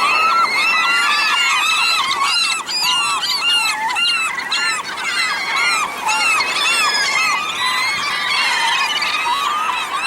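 A large flock of gulls calling all at once: a dense, continuous chorus of overlapping squealing cries as they crowd and squabble over scraps of salmon.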